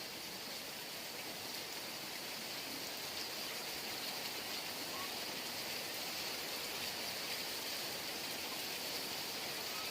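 Heavy rain falling steadily, an even hiss of water with no distinct drops or thunder, growing slightly louder.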